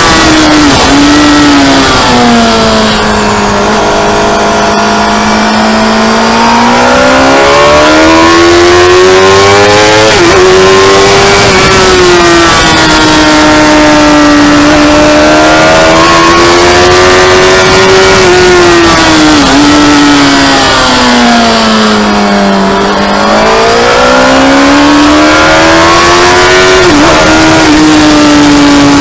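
Motorcycle engine running hard on a race track. The revs fall away twice, as if for braking into a corner, and climb again, with quick dips at gear changes. Wind rush rides over it, easing when the revs drop.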